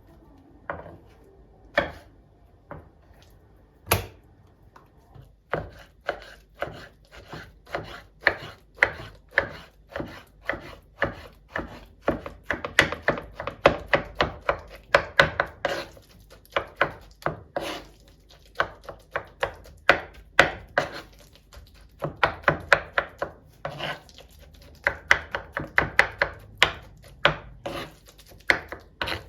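Knife chopping on a cutting board: a few separate knocks at first, then a long run of quick, even strokes, two to three a second, broken by a couple of short pauses.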